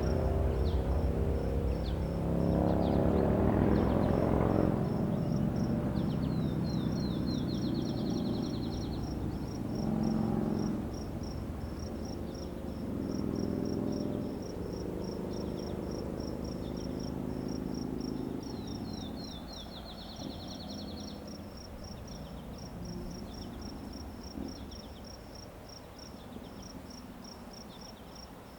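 Crickets chirping in a steady, even rhythm of about three chirps a second, with a bird giving a fast trill of repeated notes twice. Under them a low rumble with a steady hum, loudest in the first few seconds, fades away.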